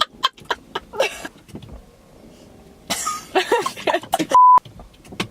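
Short bursts of voice and cough-like noise among scattered clicks, cut by a loud, steady beep lasting about a quarter second near the end.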